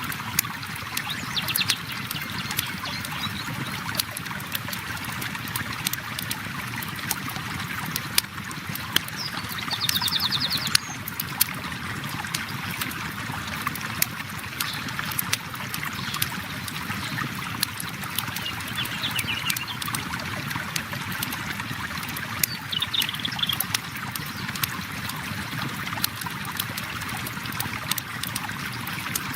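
River water flowing steadily, with a wood campfire crackling and snapping throughout in many sharp pops. Short high bird trills come a few times over the flow.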